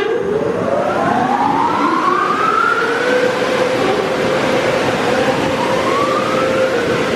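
Automatic car wash machinery running over a steady rush of water spray, with motor whines rising in pitch: one climbs over about the first three seconds and another starts rising about five seconds in.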